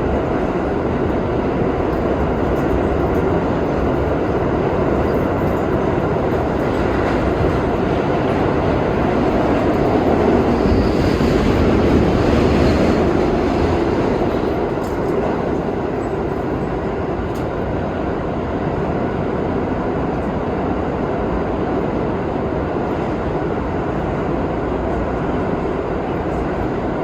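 R32 subway car running at speed through the tunnel, heard from inside the car: a steady rumble of wheels on rail and traction motors. About halfway through it swells a little louder, with a faint high wheel squeal.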